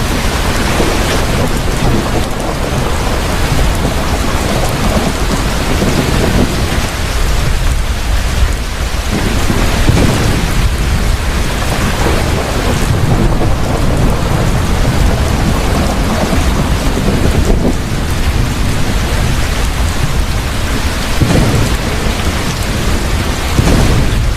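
Heavy rain falling steadily, with deep rolling thunder rumbling underneath. The thunder swells and fades in several waves.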